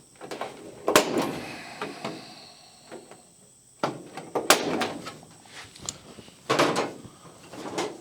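A few sharp metal knocks and clanks, each with a short rattle after it, from tools and sheet metal being handled at a workbench. The loudest come about one, four and a half and six and a half seconds in.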